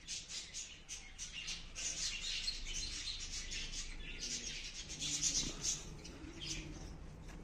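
Small birds chirping and twittering continuously in quick short notes.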